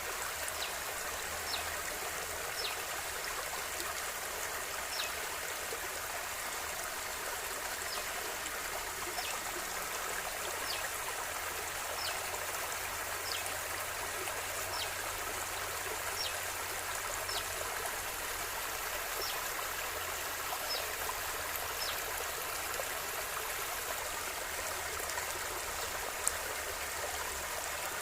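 River water flowing steadily, a constant rushing babble. Short high chirps, each falling in pitch, recur every second or two over it.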